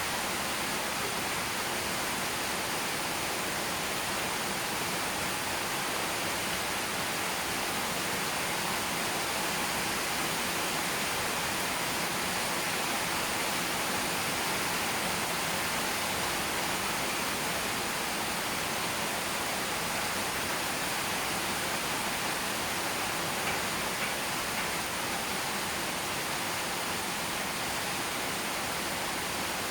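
Steady rain falling: an even, unbroken hiss with no separate drops or knocks standing out.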